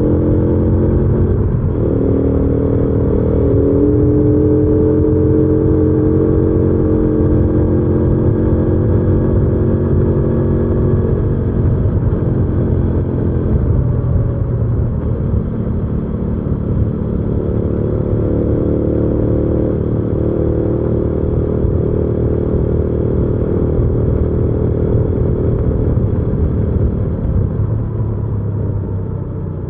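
Hyosung GV300S Aquila's V-twin engine running under way, its pitch dropping about a second and a half in as with a gear change, then climbing again. The engine note eases off in the middle, rises again, and grows quieter near the end.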